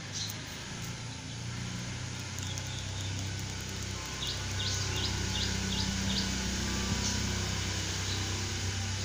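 Outdoor garden ambience: a small bird gives a quick run of about seven short, high chirps about halfway through, over a steady low hum.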